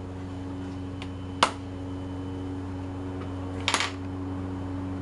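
Steady low hum, with one sharp click a little over a second in and a quick run of clicks near the end, from small hard makeup cases and tools being handled.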